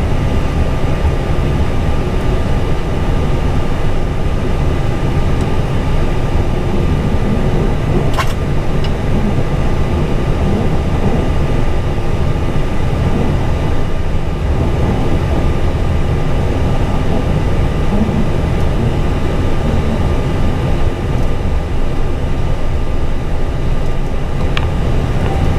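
Steady cockpit noise of an Airbus A320, with a dense low rumble and a faint steady whine. There is a single sharp click about eight seconds in.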